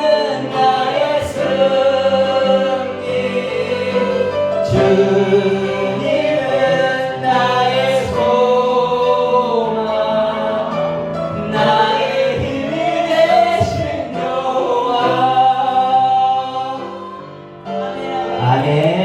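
Voices singing a praise song together with instrumental accompaniment, dying away near the end.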